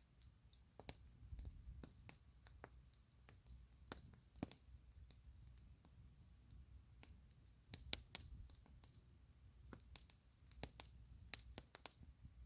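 Campfire crackling: faint, irregular sharp pops and snaps over a low rumble.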